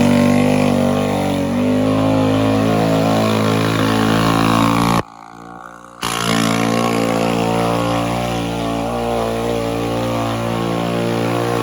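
Mini bike's small engine running steadily at a fairly even speed. The sound starts abruptly and drops away for about a second about five seconds in before resuming.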